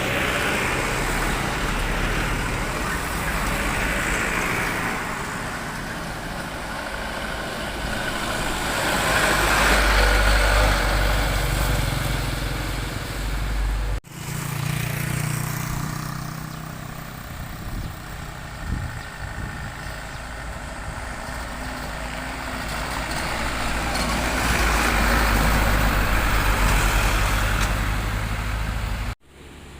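Heavy trucks' diesel engines and tyres going past in road traffic, the rumble swelling as each draws near and fading again. The sound breaks off abruptly about halfway through and again near the end.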